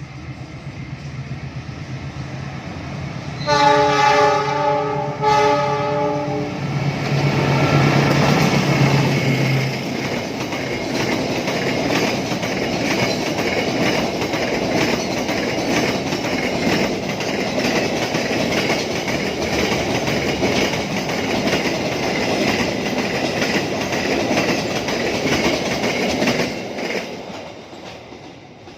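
A passing diesel-hauled train: two horn blasts a few seconds in, the locomotive's engine rumbling past, then the carriages rolling by with steady clickety-clack of wheels over rail joints, fading near the end.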